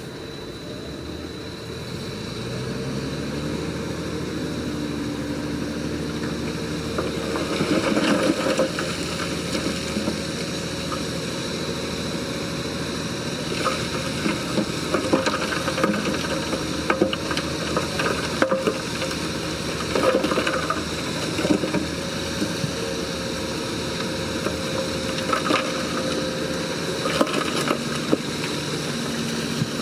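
Heavy diesel earthmoving machine's engine rising in revs a couple of seconds in, then running steadily under load. Irregular clicks and knocks sound over it from about eight seconds on.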